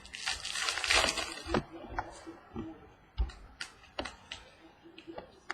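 Football trading cards handled and flipped through by hand: a rustle for about the first second and a half, then scattered light clicks and snaps as cards are moved.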